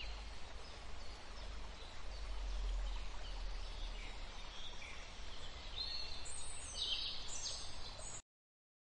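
Outdoor nature ambience: a steady low rumble under scattered short bird chirps, which grow busier and louder near the end. The sound cuts off suddenly about eight seconds in.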